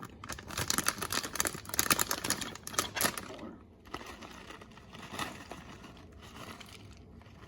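Plastic packaging of sharp cheddar cheese crinkling and rustling as it is handled. It is loudest for the first three seconds or so, then softer rustling follows.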